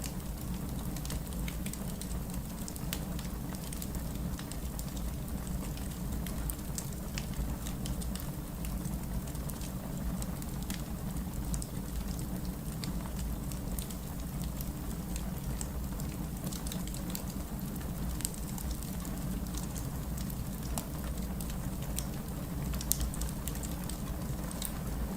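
Wood campfire burning: a steady low rumble of flames with many scattered small crackles and pops.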